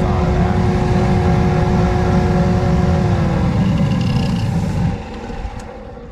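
Crucible furnace burner running with a loud rumble and a steady tone over it. The tone slides down after about three seconds, and the rumble falls away about five seconds in.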